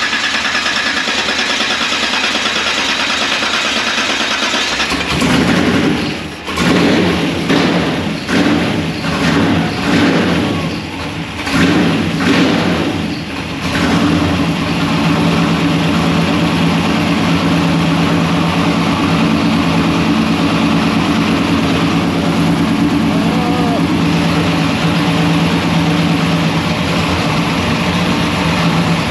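The 1961 Ford gasser truck's engine is cranked and catches about five seconds in. It is blipped up and down several times, then settles into a steady idle. The carburetor has just been refitted with a bigger jet to richen a mixture that ran on the edge of too lean.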